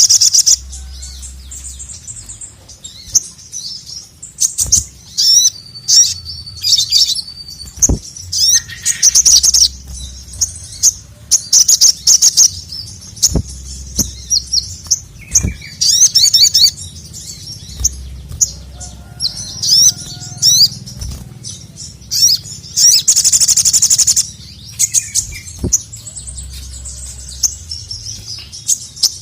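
Ruby-cheeked sunbird (sogon) singing loudly: repeated bursts of rapid, high-pitched trilling chatter, each a second or two long, with short sharp clicks between them.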